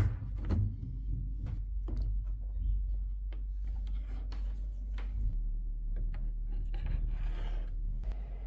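Handling sounds: scattered light taps and clicks, with a short scraping rub about seven seconds in, over a steady low hum.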